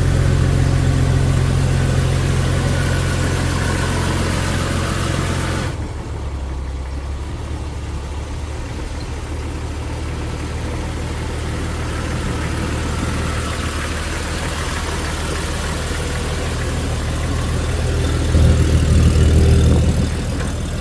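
Jeep Wrangler TJ engine running steadily at idle through a new stainless Banks header and aFe dual catalytic exhaust, with a steady low exhaust note. About six seconds in the sound abruptly turns duller, and near the end the exhaust swells louder for a couple of seconds.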